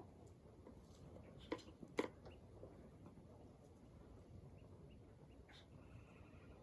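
Quiet ambience with a low, steady background hiss and faint, scattered chirps. Two sharp clicks come about a second and a half and two seconds in.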